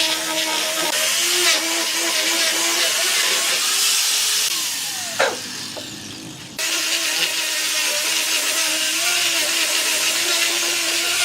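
Electric power tool running with a steady whine and a high hiss. The sound fades with a falling pitch about halfway through, then starts again abruptly at full level.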